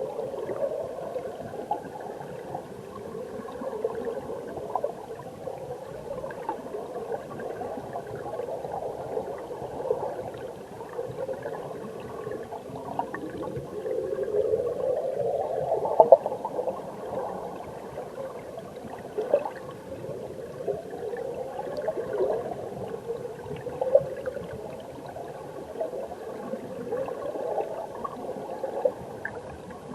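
Mountain stream heard through an underwater camera: steady gurgling, rushing water with scattered small ticks, and repeated slow upward-sliding tones.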